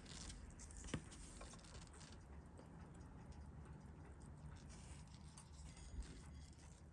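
Near silence with a few faint, sharp clicks of small steel watchmaking tools on a watch movement being taken apart; the clearest click comes about a second in.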